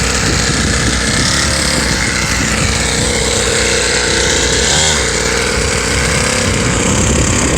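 Gasoline mini motocross bike engine running as it is ridden, its pitch wavering up and down.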